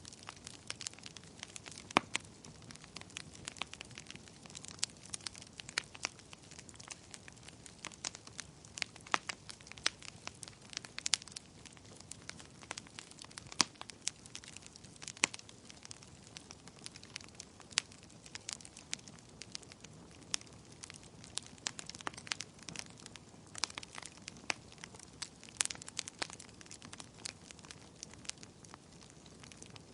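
Wood fire burning in a fireplace: logs crackling with frequent sharp, irregular pops over a soft steady hiss.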